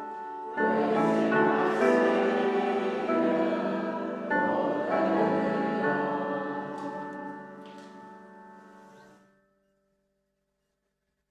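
A congregation singing the end of a hymn with instrumental accompaniment. The final chord is held and fades out about nine seconds in.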